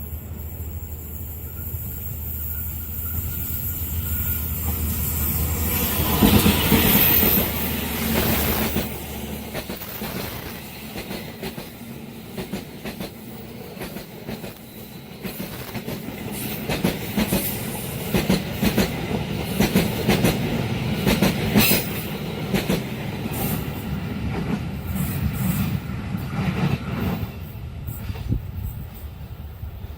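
Passenger train passing over a level crossing: the locomotive goes by loudest about six to eight seconds in, then the coaches' wheels clack rhythmically over the rail joints, dying away near the end.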